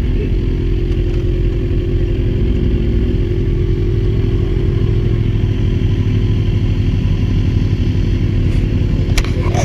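Kawasaki Z1000's inline-four engine running steadily at an even pitch, with a few sharp clicks near the end.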